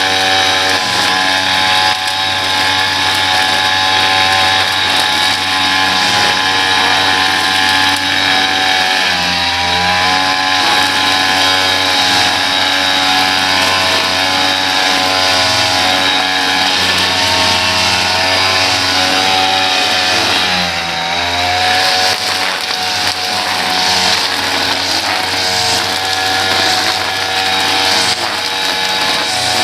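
Small gasoline lawn-care engine running steadily at high speed, its pitch dipping briefly and recovering twice as it takes load.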